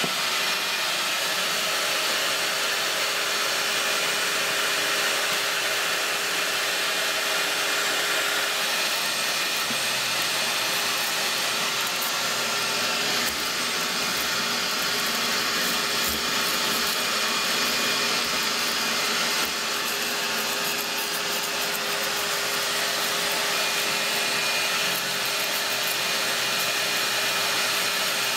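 Vacuum cleaner running steadily, sucking soot and rust debris out of an oil-fired hot water boiler's fire box and flue passages.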